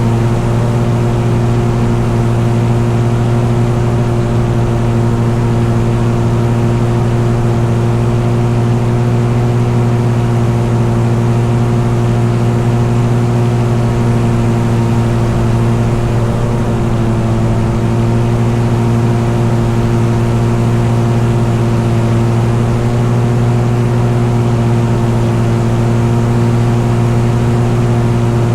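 Engine running steadily at a constant speed: a continuous drone whose pitch does not change.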